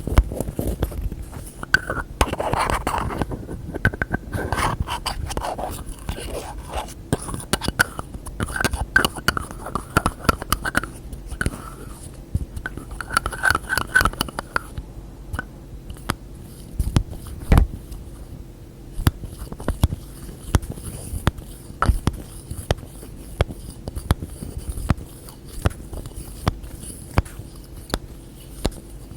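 Fingers and nails tapping on containers and their lids in quick, irregular taps. Through the first half there is also scraping and rubbing, with short ringing tones from the lids; later the taps come more spaced out.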